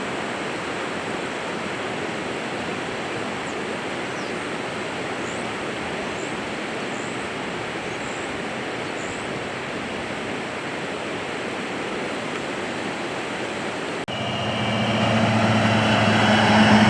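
A steady, even rushing noise that does not change for most of the stretch. About fourteen seconds in, after a brief break, it gives way to a louder heavy-vehicle engine drone with a low, steady pitch.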